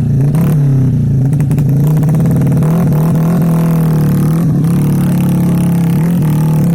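Off-road motorcycle engine revving hard under load on an uphill trail climb, its pitch rising and falling again and again.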